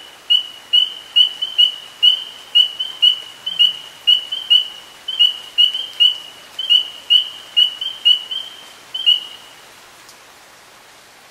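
A bird calling a long series of sharp, clear single notes at one high pitch, about two or three a second at uneven spacing, stopping near the end.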